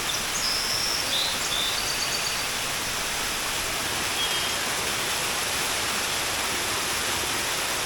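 Waterfall and fast-flowing stream water rushing steadily. A few short high chirps break in over the first two or three seconds and once more about four seconds in.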